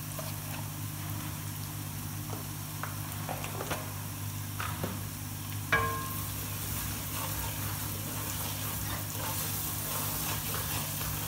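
Ginger-garlic paste and freshly added ground spices frying in oil in a steel pot, sizzling steadily while a wooden spoon stirs and scrapes, giving a few knocks and clicks against the pot, the sharpest about six seconds in. A steady low hum runs underneath.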